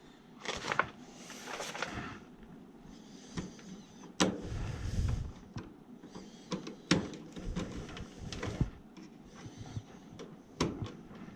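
Handling noise from work on the control wiring: scattered sharp clicks and taps with patches of rustling, as meter test leads and wires are handled.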